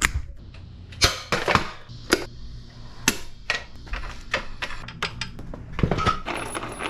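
A string of irregular sharp clicks and knocks, hard objects tapping against each other about once or twice a second, over a low hum.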